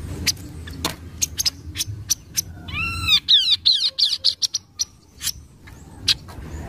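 Chestnut-capped babbler (kaso-kaso) calling: a string of short sharp chirps, with a burst of arched, rising-and-falling whistled notes followed by fast chattering about three seconds in.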